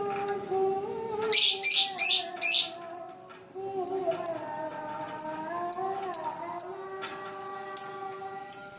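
Background music with slow, sustained tones, over which a lovebird gives four harsh squawks in quick succession about a second and a half in. From about halfway through, a run of short high chirps follows at roughly two or three a second.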